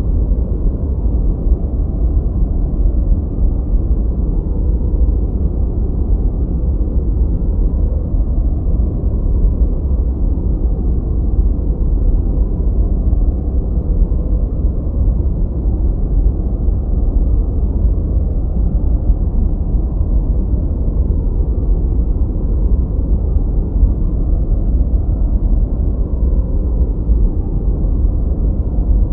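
Steady synthetic noise track, deep and even, with its sound sitting low and almost nothing in the high end. It is closer to brown noise than true white noise.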